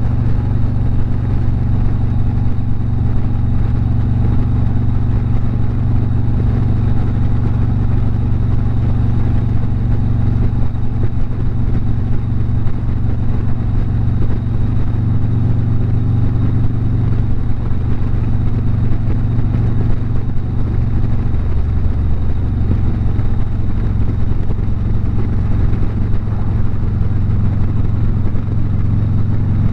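Harley-Davidson V-twin motorcycle engine running steadily at highway cruising speed, heard from the rider's seat with road and wind noise. The engine note shifts slightly about twenty seconds in.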